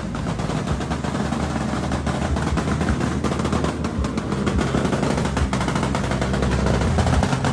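Sport motorcycle's exhaust backfiring in a rapid, continuous crackle of sharp pops over the running engine.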